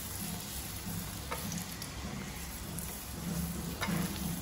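Ghee sizzling as a paratha fries on a hot tava, while a steel spoon spreads ghee over its top, with a couple of light spoon clicks.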